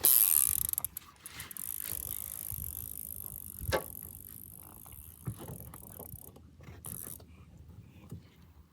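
Mini bike ridden over the yard during a wheelie attempt: rolling and rattling noise with no engine heard, a loud hissing burst right at the start and one sharp knock a little over halfway through.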